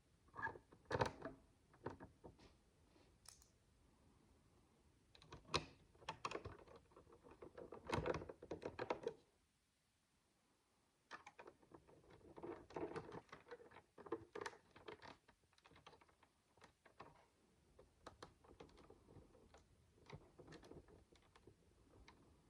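Faint plastic clicks and rattling of micro building bricks being sorted and pressed together, in irregular clusters with a short pause about ten seconds in.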